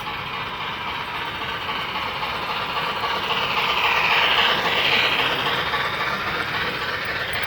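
HO-scale model train running on the layout's track, a steady whirring rattle that grows louder as it passes close by about four to five seconds in, then falls away.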